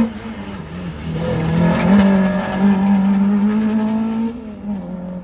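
Yellow-green rally hatchback's engine running at high revs through the cone slalom. It eases off briefly near the start, pulls hard again from about a second in, and drops away near the end.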